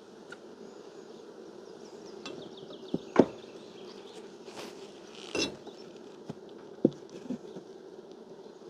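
Honeybees buzzing steadily around an open hive, with a few sharp knocks and clicks from its wooden frames being handled. The loudest knock comes about three seconds in.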